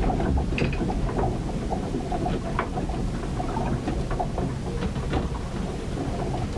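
Storm heard aboard a ship: a constant low rumble of wind and water, with many small knocks, creaks and splashes scattered through it.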